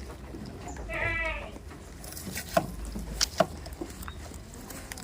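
A goat bleats once, a short wavering call about a second in, followed by a few sharp knocks about two and a half to three and a half seconds in.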